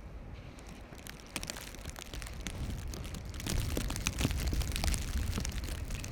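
Footsteps crunching in snow, an irregular crackling that grows louder about three and a half seconds in, over a steady low rumble of blizzard wind buffeting the microphone.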